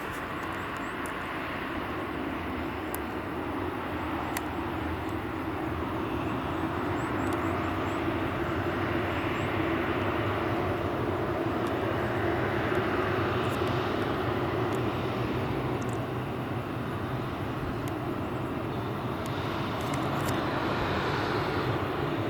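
Boeing 737-800's CFM56-7B jet engines running, a steady rushing noise that slowly grows louder and then eases off a little.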